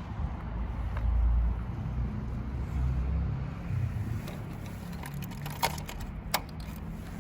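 Kawasaki Zephyr χ air-cooled inline-four running through a BEET aftermarket exhaust with a low, steady rumble that swells briefly about a second in and again around three seconds in. Two sharp clicks come near the end.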